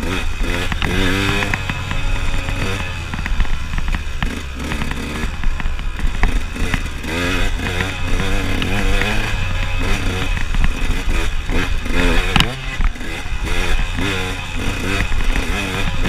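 KTM enduro motorcycle engine revving up and down over and over as the rider works the throttle on rough dirt trail, with wind noise throughout. A single sharp knock comes about three-quarters of the way through.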